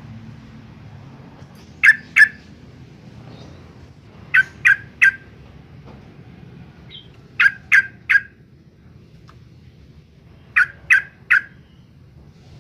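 Yellow-vented bulbul giving loud, sharp call notes in quick groups of two or three, repeated about every three seconds.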